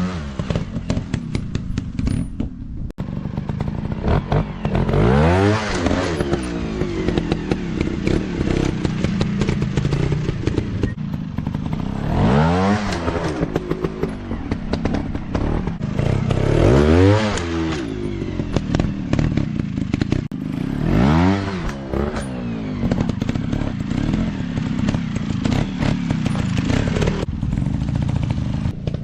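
Off-road motocross bike engines running and revving, climbing in pitch and dropping back about four times, with clattering over the top.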